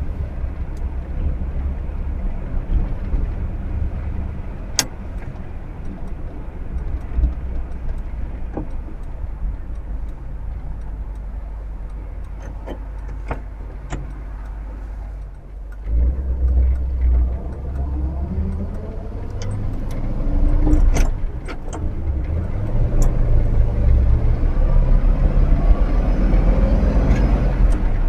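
1959 Chevrolet Bel Air's 348 V8 running as the car drives, with a few sharp clicks. Partway through, the engine note dips, then comes back stronger, and it rises in pitch more than once as the car speeds up near the end.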